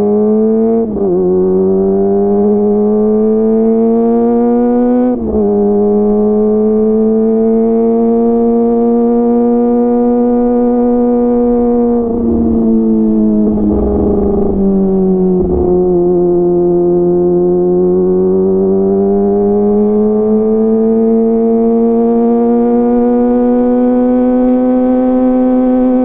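Kawasaki ZX-25R's inline-four engine through a DX Generation GPR full-system aftermarket exhaust while riding at an easy pace: a smooth, high-pitched engine note that drifts gently up and down with the throttle. The pitch drops abruptly twice, about a second in and again about five seconds in, as gears are changed up.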